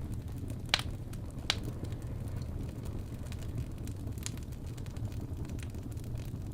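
Crackling wood fire: a steady low rumble of burning with sharp pops and cracks, two loud ones close together about a second in and a smaller one past the middle.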